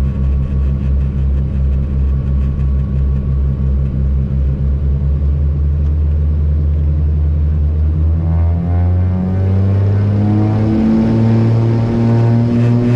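Cessna 402's twin piston engines heard from inside the cockpit, running with a pulsing beat, then throttled up about eight seconds in, their pitch rising steadily.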